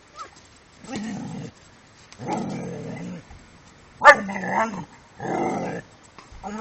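A dog vocalizing: four drawn-out calls a second or so apart. The third, about four seconds in, starts with a sharp, loud cry and is the loudest.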